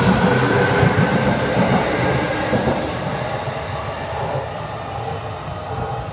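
Tsukuba Express electric commuter train running away along the elevated track. Its wheel rumble and motor whine fade steadily as it draws off.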